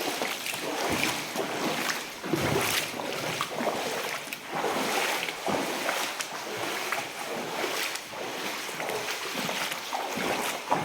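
Someone wading through floodwater in boots, the water sloshing and splashing with each stride about once a second.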